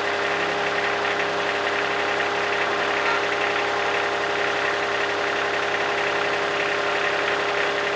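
Kubota D1105 three-cylinder diesel engine of a rider vacuum running steadily at constant speed, with no revving.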